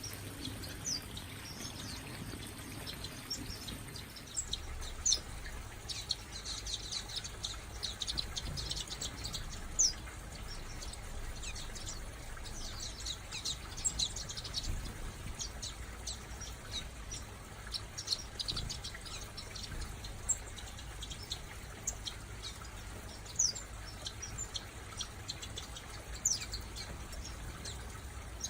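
Small aviary finches and waxbills chirping: many short, high calls, busiest around eight seconds in, over a low steady rumble.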